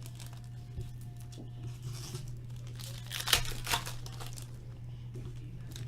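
Trading-card pack wrappers being torn open and crinkled, in scattered sharp rips, the loudest a little past three seconds in. A steady low hum runs underneath.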